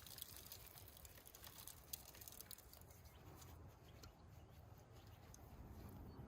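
Near silence: faint outdoor ambience with a few soft ticks in the first half, one a little clearer about two seconds in.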